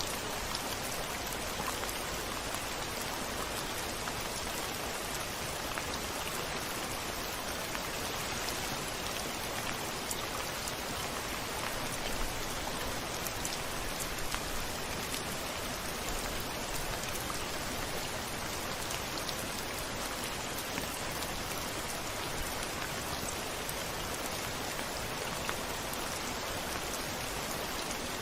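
Steady rain falling on a window, an even hiss with scattered individual drop ticks and no thunder.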